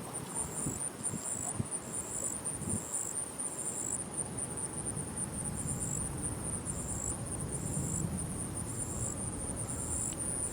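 Insects calling in a steady high-pitched chorus, with a second insect chirping in regular pulses a little lower, about once every 0.7 seconds.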